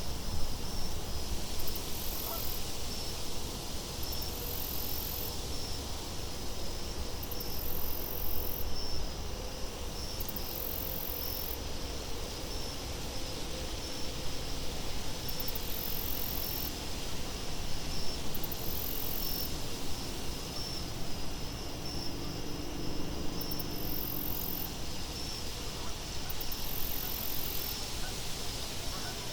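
Crickets chirping steadily, with a higher insect trill coming in every two to three seconds, over a low wind rumble.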